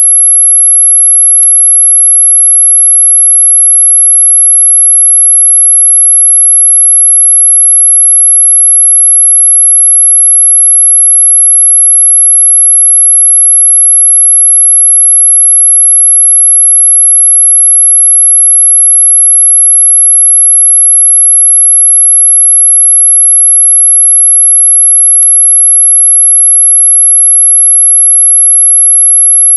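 Electronically generated high-pitched sine tone of the kind sold as an ultrasonic mosquito repellent, held steady and unbroken at one pitch, loud. It is well within hearing, not truly ultrasonic.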